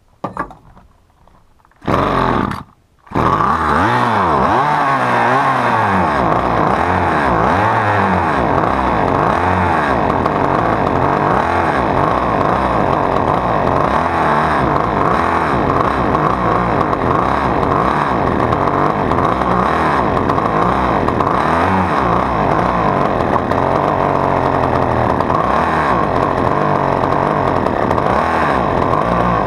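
Husqvarna T435 top-handle chainsaw's small two-stroke engine starting: it fires for about a second about two seconds in, cuts out, then catches again a moment later and keeps running, its speed wavering up and down.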